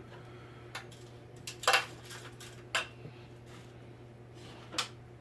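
Small hard parts clinking and knocking as they are handled and set down: about five sharp clinks with short ringing, the loudest near the middle, over a steady low hum.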